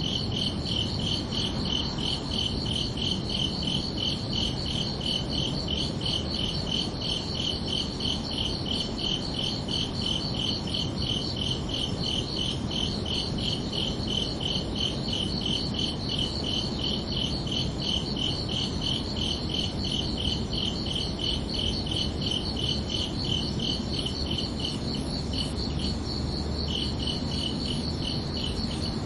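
Crickets chirping steadily in rapid, evenly spaced pulses at two high pitches, over a faint low background hiss; the lower-pitched chirping breaks off briefly near the end.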